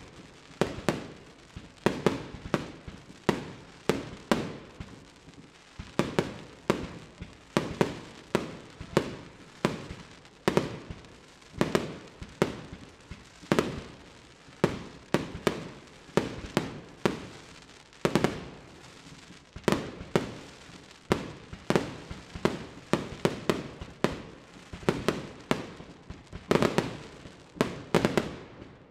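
Fireworks display: a steady run of aerial shell bursts, sharp bangs at about two a second, each trailing off in a short echo.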